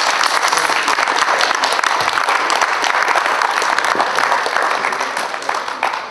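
Spectators clapping in applause at the end of a sabre bout, dying away near the end.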